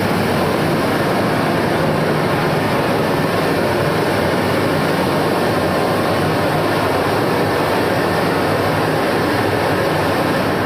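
Cremation furnace running: a loud, steady rushing noise of its burner and air blower, unchanging throughout.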